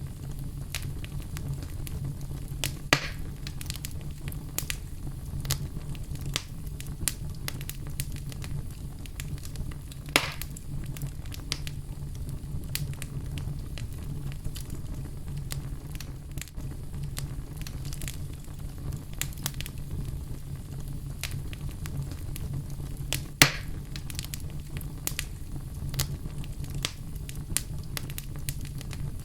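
Wood fire crackling in a fireplace: a steady low rumble of the burning with frequent small snaps and pops, and a few louder sharp cracks, the loudest about two-thirds of the way through.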